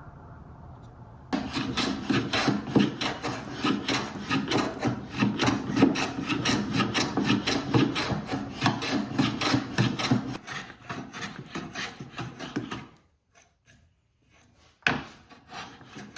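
Rapid rasping strokes on wood as the glued-in rosewood patch on a hand-plane tote's horn is shaped. The strokes stop about 13 seconds in, and one more short scrape or knock comes near the end.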